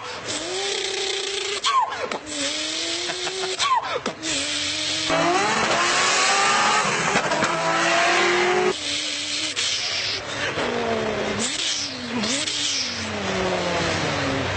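A person imitating a Toyota 2JZ straight-six engine with his mouth. The pitch rises repeatedly, as if revving through the gears, and drops suddenly between shifts, with a loud hissing rush through the middle.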